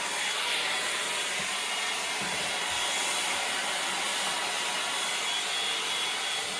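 Landot 4-in-1 hot-air brush hair dryer running, a steady rush of blown air with a faint high whine from its motor.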